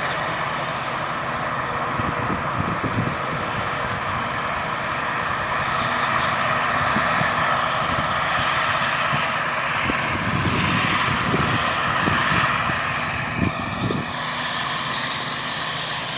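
Claas Jaguar 870 self-propelled forage harvester running steadily under load, its engine and cutting and blowing drive making a loud, even mechanical noise with several held tones. Short low thumps come now and then, most of them in the second half.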